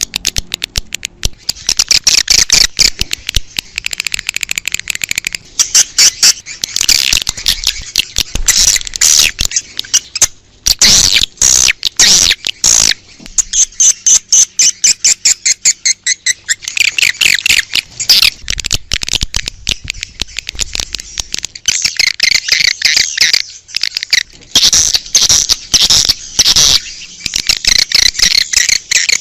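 Swiftlets twittering: a dense, unbroken stream of rapid high chirps and clicks, the kind of swiftlet-lure recording played to draw swiftlets to a nesting house.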